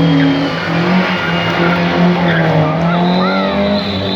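A classic car's engine held at high, steady revs, with tyres squealing.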